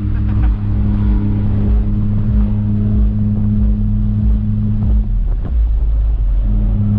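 A car engine running at a steady speed, its low drone holding one pitch, with wind buffeting the microphone in gusts. The upper part of the drone fades for about a second near the end, then returns.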